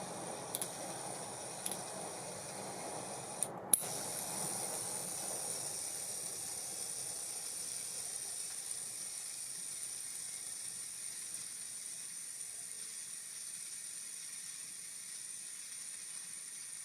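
Spool of an ABU Ambassadeur 2500C De Luxe baitcasting reel spinning freely, a steady high whir that slowly dies away. It starts with a sharp click about four seconds in, after a few lighter clicks. The reel has been tuned with its oil cut to a minimum, to show how freely it turns.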